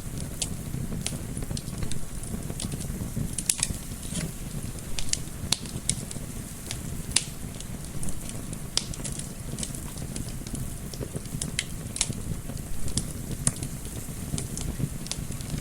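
Fireplace fire crackling, with irregular sharp pops scattered throughout, over a low, steady rush of gentle wind.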